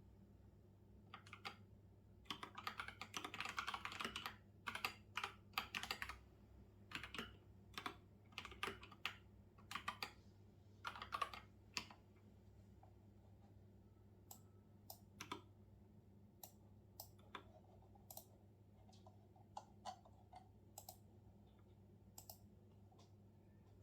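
Typing on a computer keyboard: quick runs of keystrokes in the first half, thinning to scattered single key presses and short bursts later, over a faint steady low hum.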